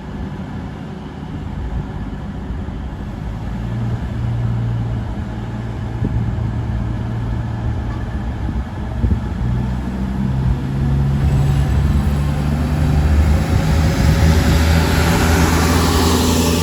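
British Rail Class 220 Voyager's underfloor Cummins diesel engines running with a steady low hum. From about two-thirds of the way in the engine note steps up and grows louder as the train powers away.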